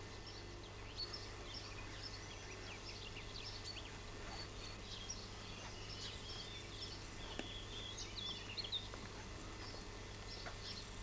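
Birds chirping and twittering: many short, high calls scattered throughout, over a steady low hum.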